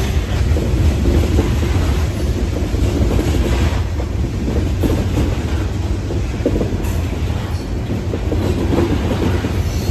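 Loaded CSX coal train's hopper cars rolling past on the track: a steady, loud rumble of steel wheels on rail.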